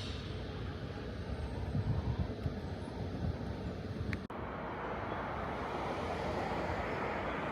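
Steady ambient background noise with a low rumble that swells and wavers about two seconds in. A little over four seconds in it cuts off abruptly and gives way to a steadier, brighter hiss.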